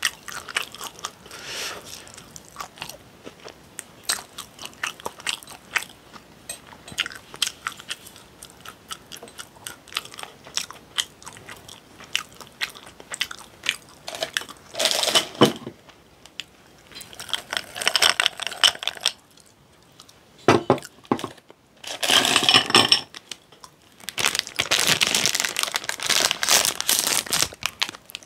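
Close-miked chewing of crunchy fried snacks: a run of small crisp crunches and mouth clicks. From about halfway there are loud bursts of plastic wrapper crinkling, nearly continuous near the end, as a plastic-wrapped mochi is handled.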